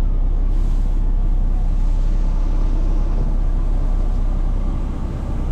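Straight-piped Paccar MX13 diesel of a semi truck with a full emissions delete, running steadily with a low drone; it dips slightly in loudness about five seconds in.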